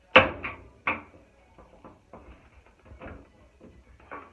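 Knocks and clatters of dryer parts being handled during disassembly: one sharp loud knock just after the start, two more within the first second, then a string of fainter knocks.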